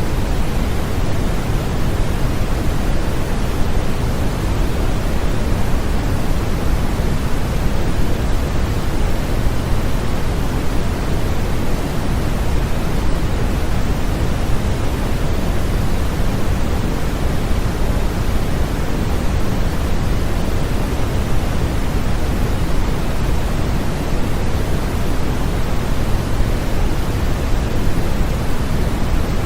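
Steady, unchanging generated white noise of the kind played as a baby sleep aid, a full, even hiss weighted toward the deep end rather than bright.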